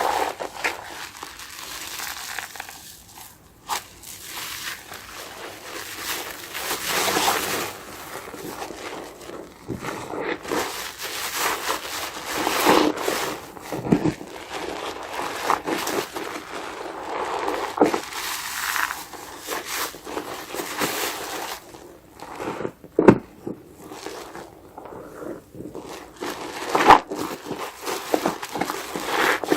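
A soap-soaked sponge being squeezed and crushed by hand, the foam crackling in an irregular run of strokes with a few sharper snaps.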